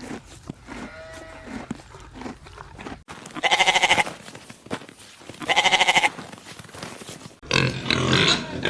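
Sheep bleating: a few fainter bleats, then two loud, wavering bleats about two seconds apart. Near the end a rougher, different animal sound cuts in.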